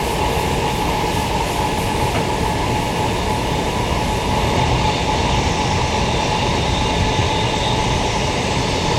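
Queensland Rail electric multiple unit running steadily between stations: an even rumble and rush of wheels on track with a steady whine over it.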